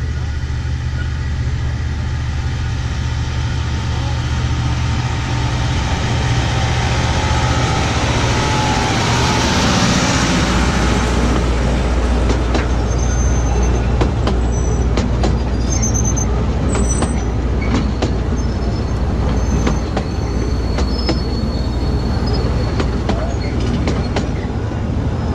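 Small narrow-gauge train running along its track: a steady low rumble, with wheel-on-rail clicks and brief high-pitched wheel squeals from about halfway through.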